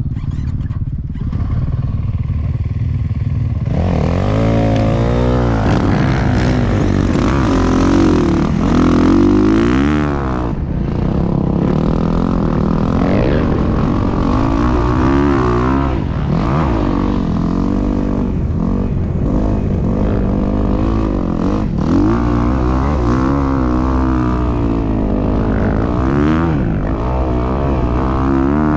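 Dirt bike engine running low for the first few seconds, then revving hard, its pitch climbing and dropping again and again as the bike accelerates and eases off while riding.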